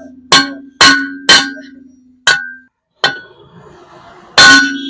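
A new bearing being knocked into a TVS Apache 160 RTR engine crankcase, using the old bearing to drive it home: about six sharp metal-on-metal knocks at uneven spacing, each ringing briefly, the loudest near the end.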